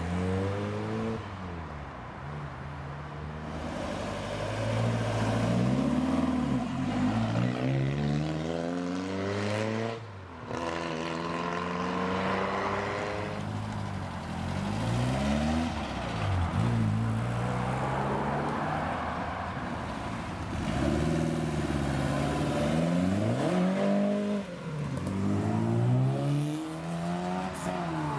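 Classic Ford cars pulling away one after another, each engine revving up and dropping back at gear changes, then fading as the next one passes.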